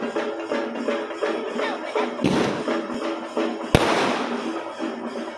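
Aerial fireworks bursting overhead: two sharp bangs, a little over two seconds in and near four seconds in, the second the louder, each trailing off over about half a second. Music plays throughout underneath.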